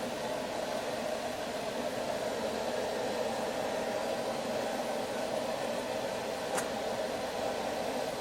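Steady rushing noise of a forge running, with one faint metallic click about two-thirds of the way through.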